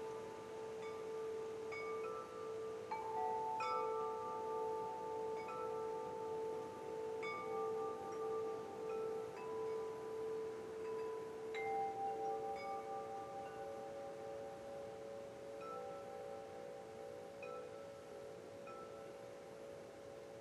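Wind chimes ringing: several tones at different pitches, struck every few seconds and each ringing on for many seconds, overlapping, over a soft steady hiss.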